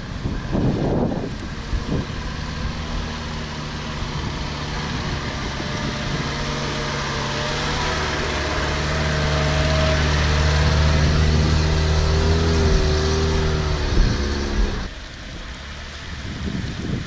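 An off-road vehicle's engine running steadily under load, growing louder, then dropping away suddenly about fifteen seconds in.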